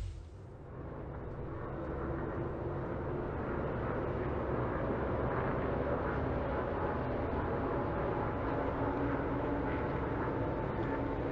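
NASCAR race trucks' engines droning steadily as the field circles the speedway, rising in about the first second and then holding even.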